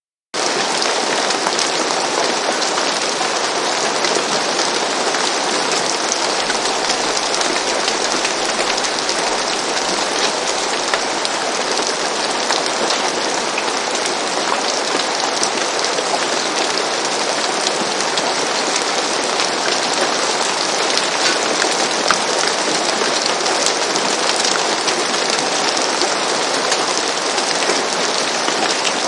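Steady rain on a roof, an even hiss of many small drops pattering. It starts abruptly out of silence just after the beginning.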